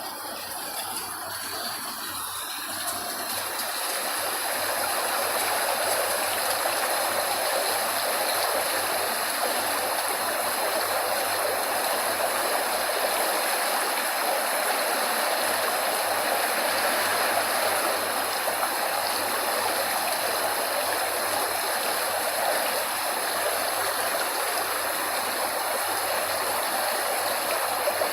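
Steady rushing of flowing water, as from a stream or waterfall. It fades in over the first few seconds and then holds even.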